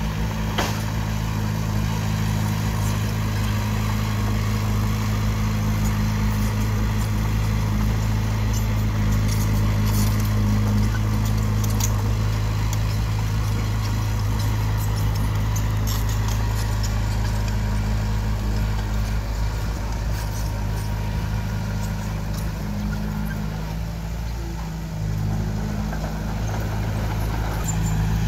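Diesel engine of heavy earthmoving equipment running steadily, with a few short knocks and clanks over it. Near the end the engine note briefly dips and changes.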